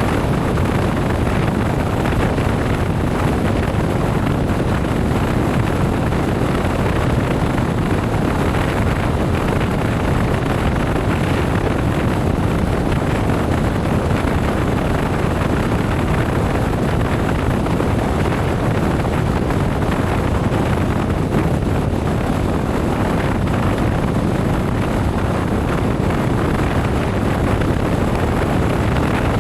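Steady wind rush and road noise of a motorcycle ride at speed, heard on the rider's microphone.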